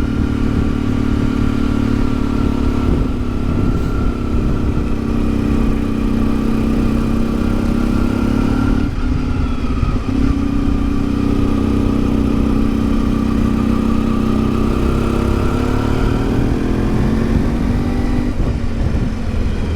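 Yamaha XTZ 750 Super Ténéré's parallel-twin engine running under way, its pitch rising and falling with the throttle and dipping sharply about nine seconds in.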